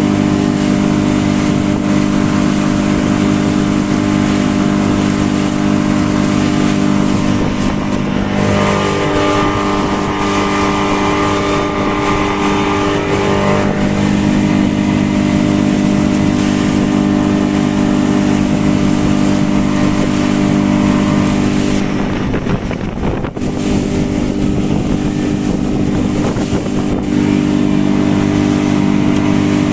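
Mercury 60 hp outboard motor running steadily at high speed on a top-speed run. Its note shifts higher for a few seconds about a third of the way in, and the sound dips briefly about two-thirds of the way through.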